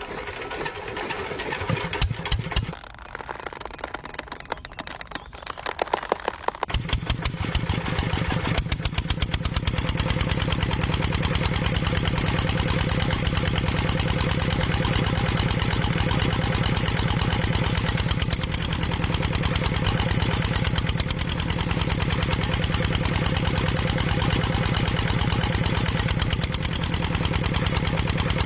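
An engine is cranked with uneven, rapid pulsing, catches about seven seconds in, and then runs at a steady idle.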